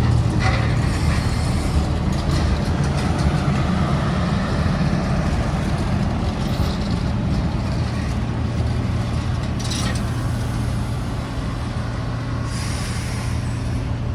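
Diesel-electric locomotive running with a steady low drone, with a short hiss of air about nine and a half seconds in and a longer one near the end.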